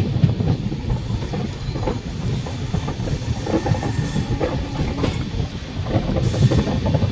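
Passenger train running along the track: a steady rumble of the coaches with irregular clatter of wheels over rail joints.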